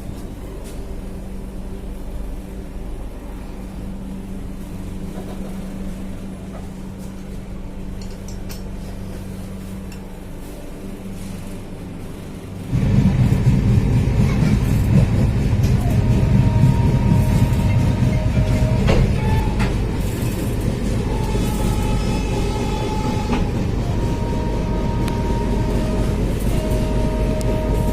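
Passenger train running with a steady low hum. About halfway through it jumps abruptly to a louder rumble, and steady held tones come and go over it in the second half.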